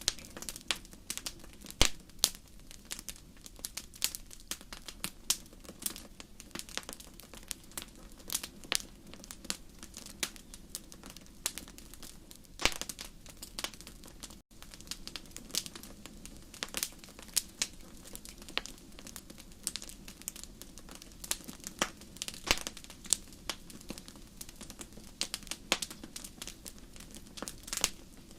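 Wood fire in a fireplace crackling: irregular sharp pops and snaps over a low steady hum, with a split-second break about halfway through.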